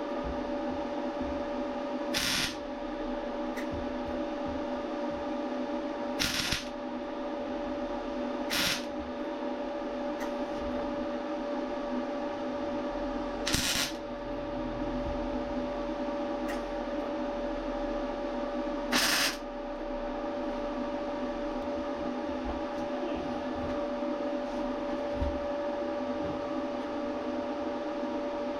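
MIG welder filling pinholes in car body steel with short blips of the arc, five brief crackling bursts several seconds apart, over a steady background hum.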